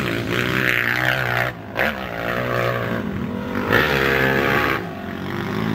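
Honda 450 motocross bike engine revving up and down as it rides through sand, under wind rush. The engine briefly drops off about a second and a half in and again near the end.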